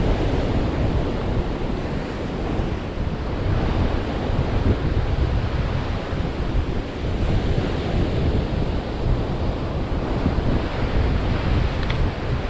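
Wind buffeting the microphone over surf on a beach: a steady rushing noise, heaviest in a low rumble.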